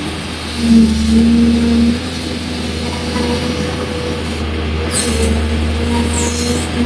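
Excavator diesel engine running steadily with a hydraulic whine that rises in level for about a second early on as the arm works under load. A few brief high-pitched sounds come through near the end.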